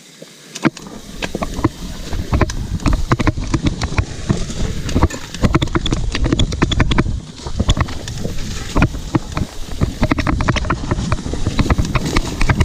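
Mountain bike ridden down a dirt trail: heavy wind buffeting the microphone, with many sharp clicks and rattles from the bike and tyres over rough ground. It starts about half a second in.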